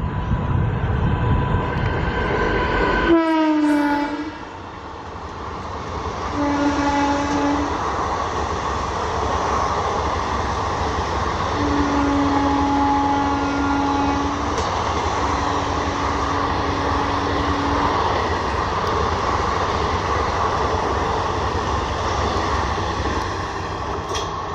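WAP-4 electric locomotive passing at speed: its low running noise drops away about three seconds in as its horn note falls in pitch going by. The express coaches then roll past with a steady clatter of wheels on rail, while the receding locomotive sounds its horn three more times, one short blast and two longer ones.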